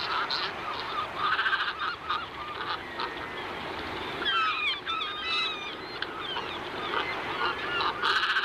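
A flock of waterbirds calling over one another in a continuous chorus of honking and chattering calls, with some sliding whistled notes about halfway through.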